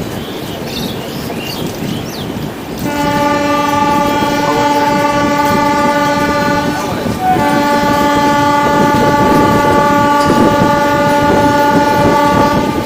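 Train horn sounding two long, steady blasts, the first starting about three seconds in and the second following after a short break, over the running noise of a moving train.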